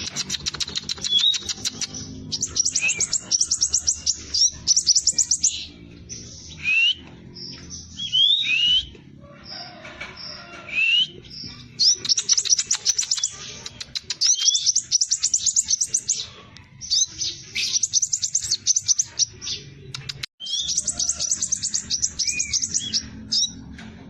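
Scarlet minivet (sepah raja) singing in rapid-fire bursts: fast trills of high notes, each a second or two long, alternating with short rising whistled notes.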